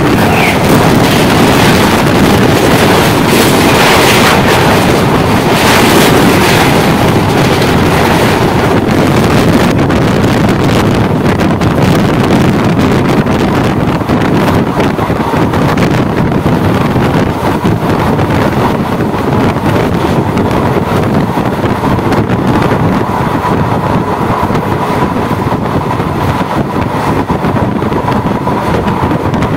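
Express passenger train running at speed, heard from an open coach door: a loud, steady rush of wheel and rail noise mixed with wind buffeting the microphone. A faint steady whine comes in over the last several seconds.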